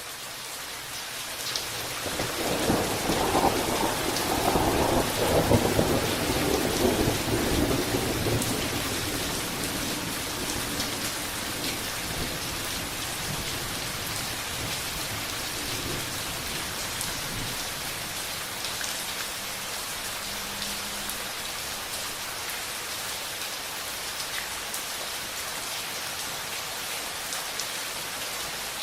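Steady rain falling, with a rumble of thunder starting about two seconds in that swells and dies away over several seconds, leaving the rain alone.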